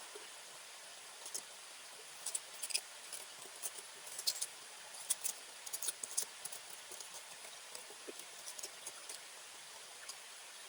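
Irregular sharp clicks and crackles, scattered and thickest midway, over a faint steady hiss.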